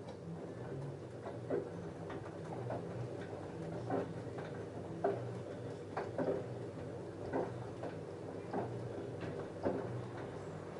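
LG F10A8HDS5 front-loading washing machine tumbling a load of jeans in its wash cycle: a steady motor hum with irregular light clicks and knocks about once a second as the wet load turns in the drum.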